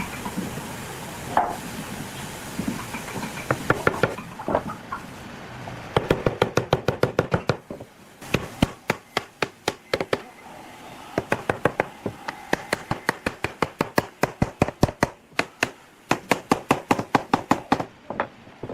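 Rapid, evenly spaced knocking on wood, about seven strikes a second, in runs of a few seconds with short breaks, starting about a third of the way in.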